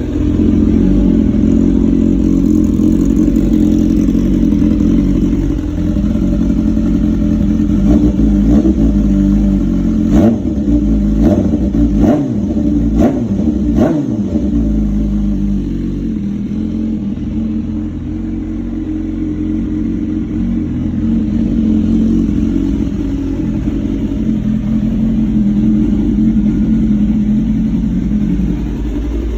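2015 BMW S1000RR inline-four engine idling through an SC-Project aftermarket exhaust. In the middle comes a run of about half a dozen short, sharp throttle blips, each rising and falling quickly, before it settles back to a steady idle.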